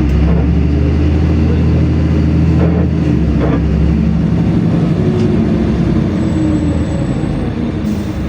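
LiAZ-5292.65 city bus under way, heard from inside the passenger cabin: a steady low engine drone with road noise.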